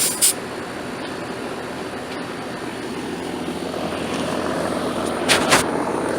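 Central air conditioner's outdoor condensing unit running steadily, its fan and compressor making an even whir, while it settles after being recharged with R-410A to factory charge. Two short hisses come at the very start and about five seconds in.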